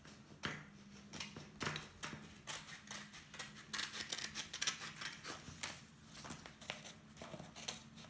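Scissors snipping through a sheet of paper, a run of irregular short cuts.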